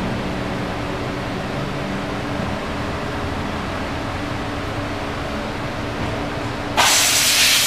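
Steady low mechanical hum with hiss from the spin test of a 1999 Suzuki Bandit 1200 rear wheel rim. Near the end a much louder hiss starts suddenly and holds.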